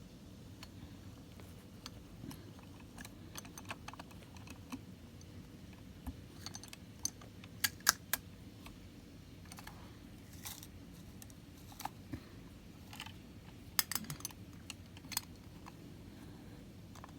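Irregular small clicks and taps of a plastic model garbage truck being handled, with its parts moving. A couple of louder double clicks come about eight seconds in and again near fourteen seconds.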